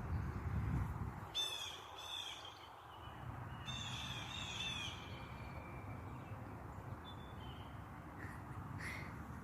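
A bird calling: two quick runs of harsh, repeated notes, each run about a second long, the second coming about two seconds after the first.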